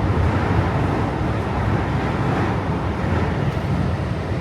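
Subway train in motion: a steady low rumble and rushing noise of the carriage on the rails.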